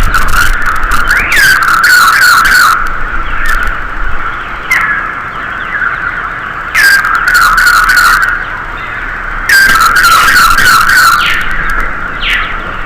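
Birds singing at dawn: a steady chorus of chirping with short falling calls, broken by three loud bouts of dense calling lasting a second or two each, over a low rumble.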